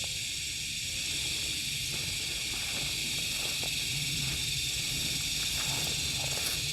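Steady, high-pitched drone of an insect chorus, unbroken throughout, over a faint low rumble.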